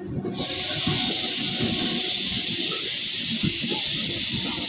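Passenger train coaches rolling past, their wheels rumbling and clattering on the rails. A steady, loud high hiss starts abruptly just after the start and runs over the rumble.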